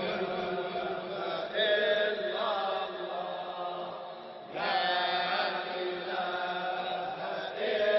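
Group of men chanting in a Sufi dhikr: a steady low drone of voices, swelling three times as the chant repeats.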